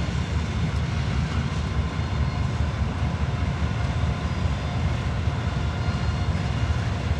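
CSX intermodal freight train passing with a steady low rumble.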